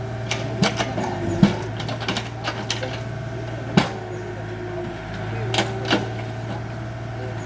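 Excavator's diesel engine running steadily while it digs, with a scatter of sharp knocks and cracks from the bucket working earth, rock or wood, the loudest about four seconds in.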